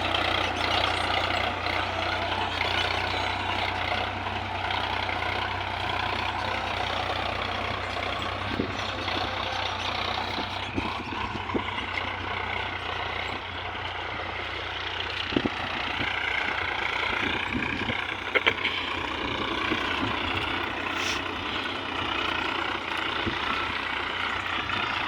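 Sonalika tractor's diesel engine running steadily, with a few short sharp knocks in the second half.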